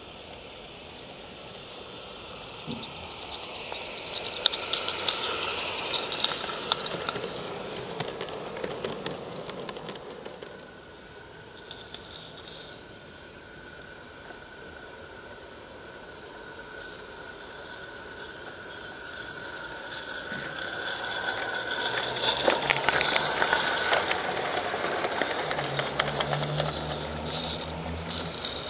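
Live-steam garden-scale locomotive running on the track, with steam hiss and the rattle of wheels and rolling stock. It grows louder twice as the train comes past.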